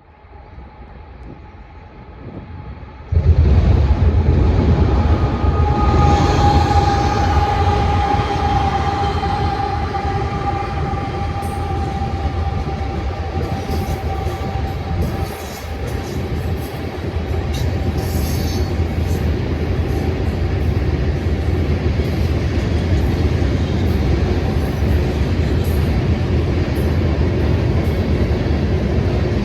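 Freight train rolling past with a loud, steady low rumble that jumps up suddenly about three seconds in. A long ringing tone peaks a few seconds later and slowly fades, with faint clicks of wheels over rail joints.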